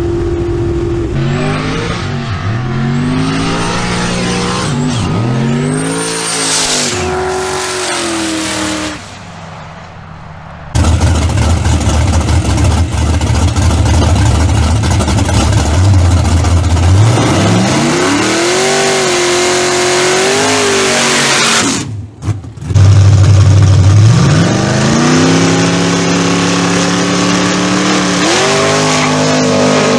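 Turbocharged street-race car engines at full throttle, their pitch climbing and dropping with each gear shift, then engines running loud at the starting line and revving up and holding high.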